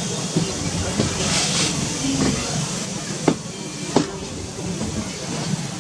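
Passenger train coaches rolling along the track: a steady rolling rush from the wheels on the rails, with a few sharp, irregular clicks and knocks from the wheels and running gear.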